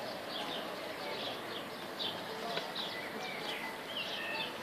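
Small birds chirping: many short, high chirps in quick succession, with a few sliding calls near the end, over a steady outdoor hiss.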